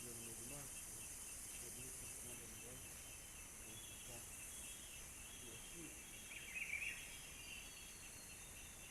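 Quiet countryside ambience: a steady high insect drone and trill, with a short bird call about six and a half seconds in.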